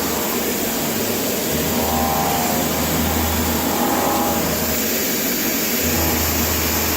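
Milling machine's face mill rough-cutting 316 stainless steel: a steady machining hiss with a low hum that drops out and returns a few times, and a faint ringing tone now and then.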